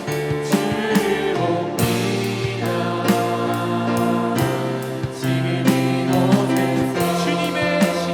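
Contemporary worship song: group singing over sustained instrumental chords, with light regular hits about twice a second.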